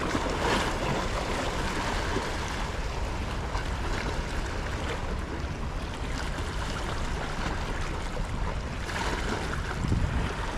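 Steady wash of sea water lapping at the shore, swelling briefly near the end.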